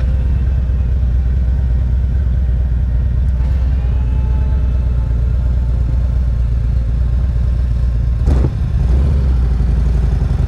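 Motorcycle engine running steadily under way, a low rumble heard from the bike itself, with a single short knock about eight seconds in.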